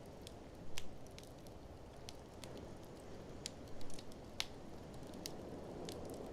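Wood fire crackling, with scattered sharp pops over a steady low rush of blizzard wind. The louder pops come about a second in and around four seconds in.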